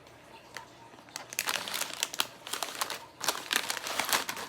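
Plastic snack packaging crinkling as it is handled: quiet at first, then a run of irregular crackles starting about a second in.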